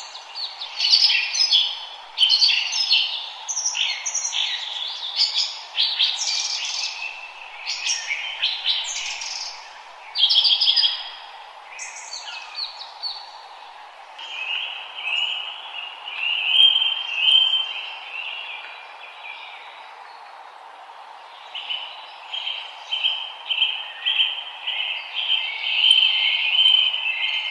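Several forest songbirds singing, with quick varied chirps and whistles. From about halfway, a fast rapid trill repeats, with a short break before it resumes. A faint steady hiss runs underneath.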